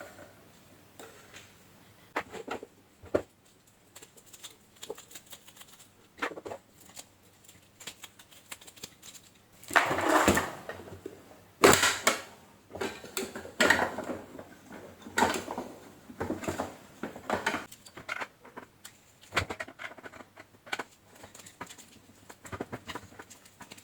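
Plastic parts of a vacuum cleaner being handled while it is taken apart: irregular clicks, knocks and scraping, with a few louder stretches of rattling and scraping about halfway through.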